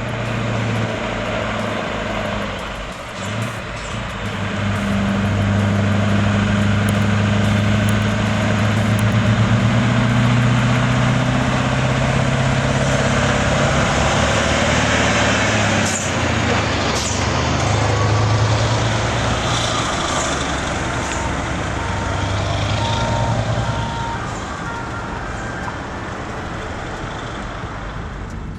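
Scania 4 Series V8 diesel engine of a heavy truck pulling an overloaded trailer, running hard under load as a steady low drone that wavers slightly in pitch, easing off near the end.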